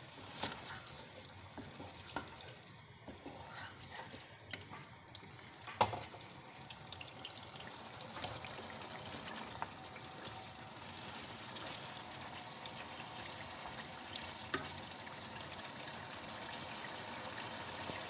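Tender mutton pieces in a thick masala sizzling and crackling in oil over medium heat as they are stir-fried (bhuna) with a wooden spatula, with a sharp knock about six seconds in. The sizzle grows louder through the second half as the oil cooks out of the masala.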